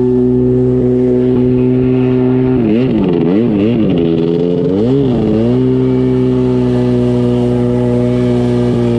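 1993 Sea-Doo SPX 580's two-stroke twin engine running with its waterbox muffler removed, the exhaust straight through a short pipe and loud. It holds a steady pitch, the revs swing up and down several times in the middle, then it settles back to a steady pitch.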